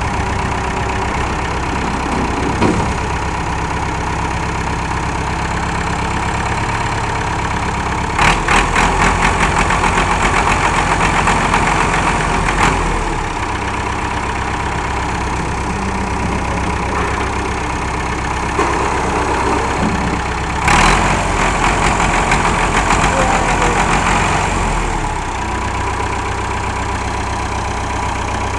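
Massey Ferguson 165 tractor engine idling steadily. Twice it runs louder for a few seconds: about a third of the way in, and again past two-thirds.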